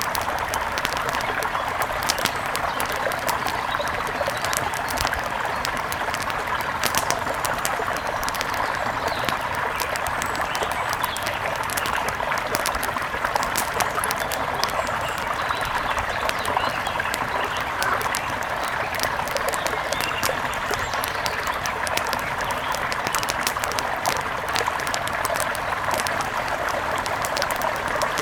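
Mountain river rushing steadily, with frequent small sharp crackles of a campfire scattered over it.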